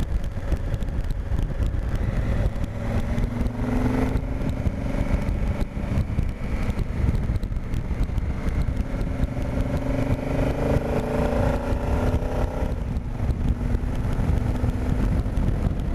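Honda Africa Twin's parallel-twin engine running on the move, its pitch rising and falling as the bike is ridden, over a steady low rumble of wind and road noise.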